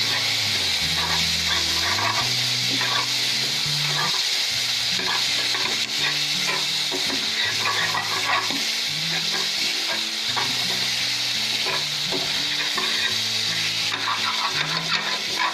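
Chopped tomatoes and onions sizzle in hot oil in a metal kadhai while a steel spoon stirs and scrapes the pan in repeated strokes. Soft background music plays underneath.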